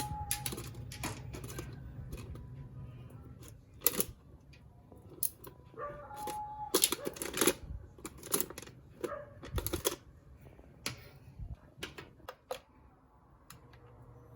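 Irregular clicks, taps and knocks of small objects being handled, with two brief squeaks.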